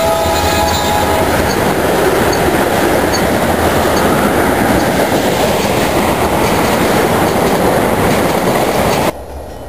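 Train passing close by: the locomotive's multi-tone horn sounds to about a second in, then the steady loud noise of the cars rolling past on the rails. It cuts off abruptly near the end.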